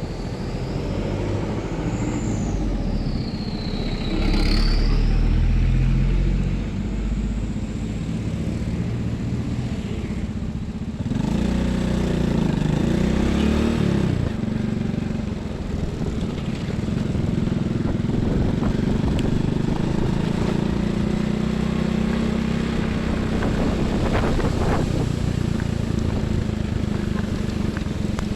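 Highway traffic with trucks and buses driving past, their diesel engines rumbling and swelling as each vehicle goes by. A high whine rises and falls in the first few seconds.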